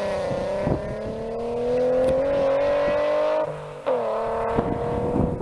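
Nissan 350Z's 3.5-litre V6, breathing through Tomei headers and a Nismo S-Tune cat-back exhaust, pulling under hard acceleration with its pitch climbing. About three and a half seconds in it briefly drops off for an upshift, then pulls again in the next gear.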